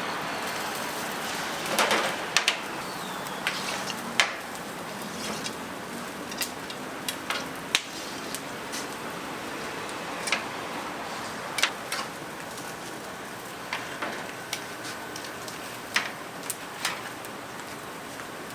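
Cooking and kitchen work: a steady hiss with about a dozen scattered sharp clicks and knocks.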